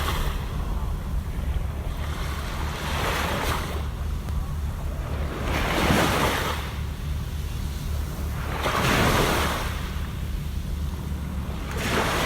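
Sea waves breaking and washing up the shore about every three seconds, each wash swelling and fading, over a steady low rumble of wind on the microphone.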